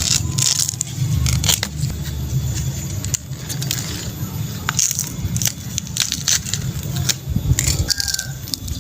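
Banana leaf stalk cracking and snapping: a run of sharp, irregular clicks and crackles, some in quick clusters, over a low murmur.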